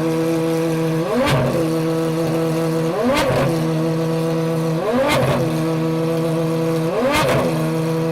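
Pagani Huayra R's naturally aspirated V12 idling and being blipped, with four short revs about two seconds apart, each rising quickly and dropping straight back to idle.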